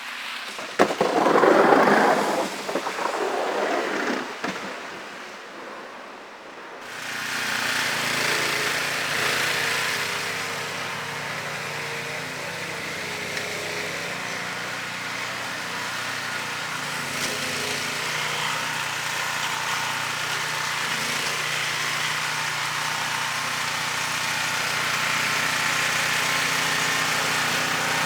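Wind gusts buffeting the microphone in a snowstorm, loudest for a few seconds near the start. About seven seconds in, a steady rushing noise begins, with a low engine hum under it.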